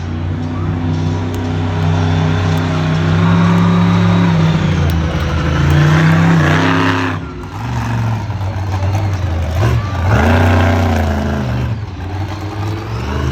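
Monster truck engine running hard and revving, its pitch rising and falling. It cuts off sharply about seven seconds in, then revs back up around ten seconds.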